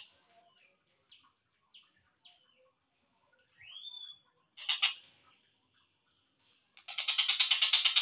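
Tengkek buto kingfisher calls, slowed down. There are a few faint short chirps, a rising whistle a little before the middle and a short sharp note at about five seconds. About seven seconds in, a loud, rapid run of evenly repeated notes begins.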